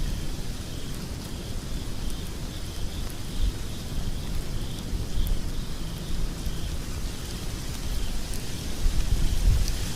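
Logs burning in a fireplace: a steady low rumble of flame with faint, scattered crackles.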